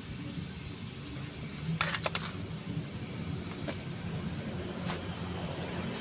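A car engine running steadily with a low hum. A quick run of sharp clicks comes about two seconds in, and two single clicks follow later.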